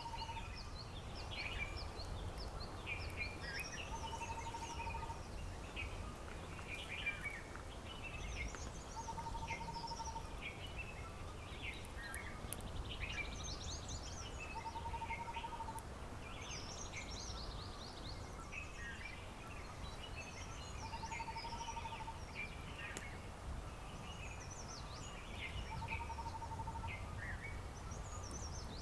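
A chorus of many songbirds chirping and twittering, with one lower trill, about a second long, repeating roughly every five seconds, over a steady low rumble.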